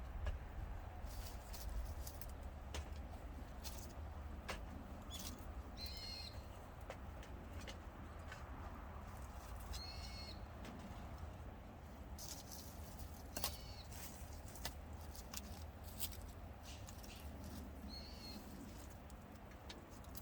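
Wood campfire crackling with scattered sharp pops over a steady low rumble, while a bird calls four times at intervals of a few seconds.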